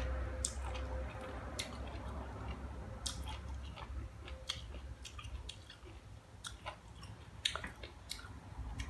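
A person chewing slices of crisp green sour mango: irregular crunches and wet mouth clicks, a few of them sharper and louder.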